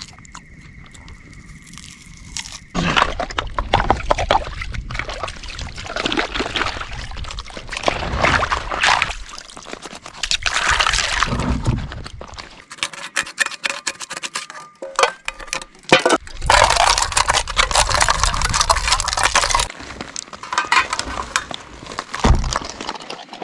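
Camp dishes being washed by hand: water sloshing and pouring, with irregular scrubbing and clatter, broken into several short clips.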